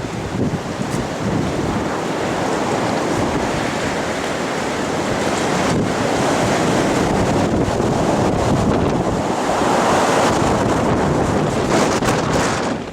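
Wind of a 70 to 80 mph windstorm blowing hard across the microphone: a loud, continuous rushing noise that swells about ten seconds in.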